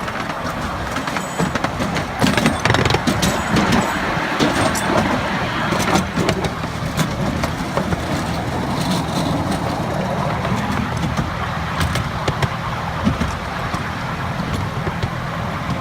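Miniature railway train running: a steady engine drone, with scattered sharp clicks and knocks from the wheels and track, busiest in the first few seconds.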